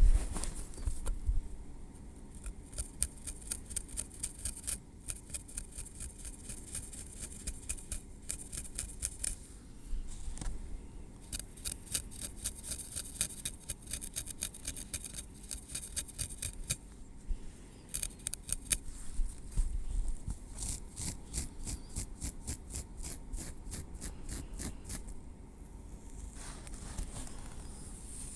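Metal tweezers clicking and scraping over a scalp in quick runs of crisp ticks, several a second, broken by short pauses and dying away near the end.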